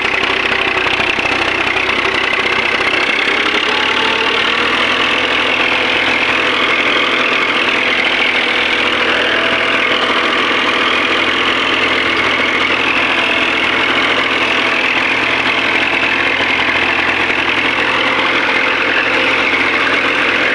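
Tractor engine running steadily at a constant loud level, its note shifting only slightly.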